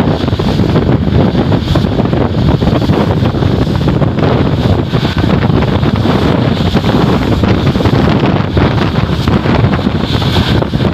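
Strong wind buffeting the microphone: a loud, steady low rumble that never lets up.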